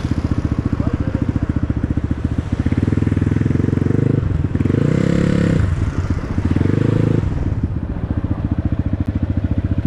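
Dirt bike engine running with a rapid, even beat, swelling louder three times in the middle as it is revved.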